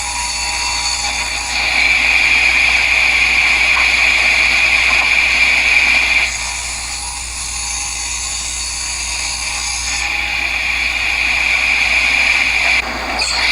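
Table saw running and ripping a board lengthwise, a steady high whine that grows heavier under load twice, from about a second and a half to six seconds in and again from about ten to nearly thirteen seconds in.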